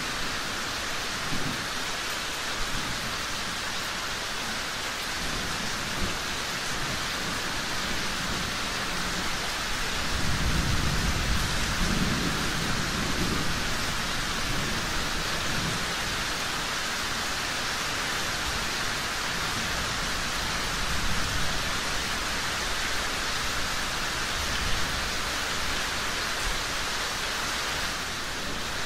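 Steady rain with a low roll of thunder rumbling for a few seconds about a third of the way in.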